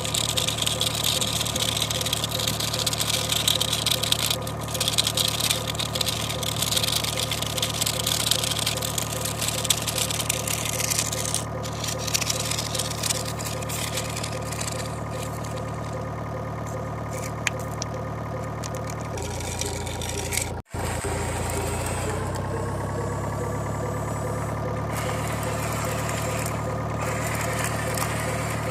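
Engine sound effects of tractors and a backhoe loader running steadily. About 19 s in the engine note changes, cuts out for an instant, then rises in pitch and settles into a steady run again.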